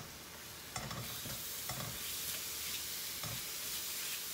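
Blended spice paste with lemongrass and lime leaves sizzling as it fries in a non-stick pan, stirred with a wooden spatula that scrapes and taps the pan a few times. The sizzle grows louder about a second in.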